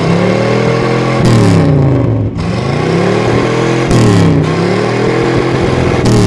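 Car engine revving up and down repeatedly, its pitch rising and falling about four times, each swing lasting one to two seconds.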